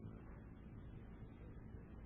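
Near silence: only the steady faint hiss and low hum of an old recording's background.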